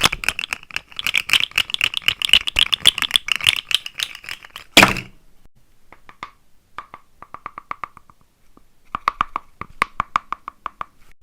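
Rapid dense clicking and rattling for about five seconds, then one loud thunk. After that come slower, sparser clicks.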